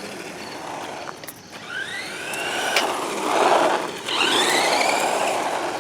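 Brushed electric motor and gears of a Redcat Volcano EPX RC monster truck whining up in pitch as it accelerates, twice, with tyre noise from the asphalt.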